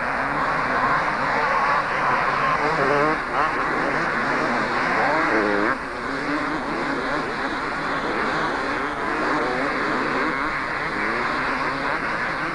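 Two-stroke motocross bikes racing, several engines revving up and down at once so that their pitch keeps rising and falling. The sound drops slightly in loudness about six seconds in.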